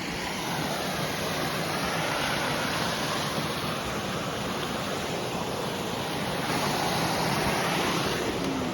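Steady rush of a rain-swollen creek flowing over small cascades.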